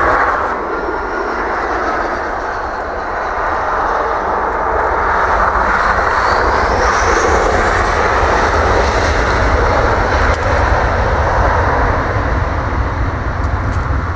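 Jet airliner's engines running at high power, a loud steady noise with a deep rumble, with a faint rising whine about halfway through.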